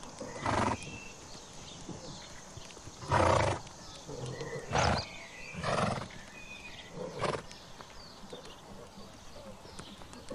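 Grazing horses making five short, loud, noisy bursts spaced irregularly, with birds chirping faintly in the background.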